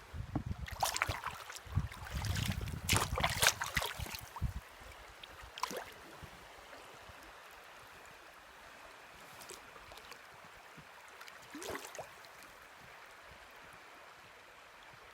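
Mountain river water churning and splashing around a small boat drifting downstream. A cluster of splashes and knocks comes in the first few seconds, then the river settles to a steadier rush with a few separate splashes.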